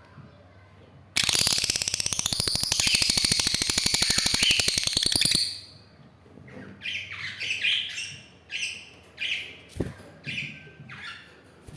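Lovebird calling: a loud, rapid rattling chatter lasting about four seconds, then a run of short, separate chirps. There is a brief low knock near the end.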